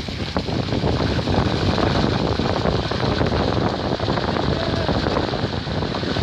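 Wind buffeting the microphone: a loud, steady rushing rumble with no distinct events.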